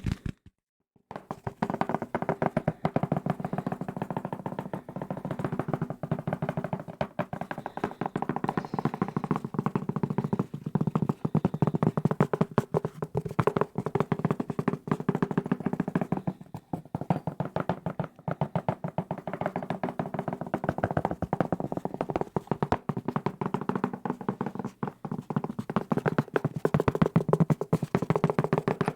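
Fast, aggressive tapping on a hard desk object: a dense, unbroken stream of taps, each ringing with the same few tones. It starts about a second in, after a brief silence.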